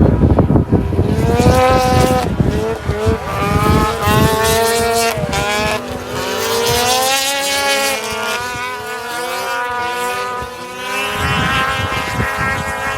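Several racing snowmobile engines whining as the sleds run the course, their pitch rising and falling with throttle and overlapping one another. A loud low rumble at the start.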